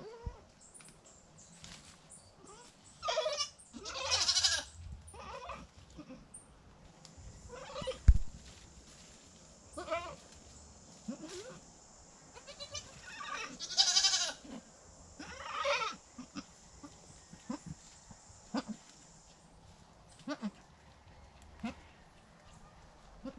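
Goats bleating: a few loud, drawn-out bleats and many short, fainter ones, with a single sharp thump about eight seconds in.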